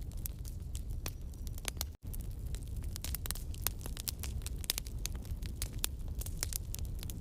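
Wood campfire burning: many irregular sharp crackles and pops over a low steady rumble. The sound cuts out for an instant about two seconds in.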